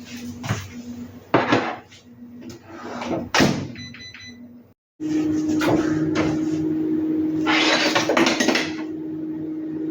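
Household knocks and clatter, with a short electronic beep about four seconds in; after a sudden break, a steady appliance hum with rustling over it.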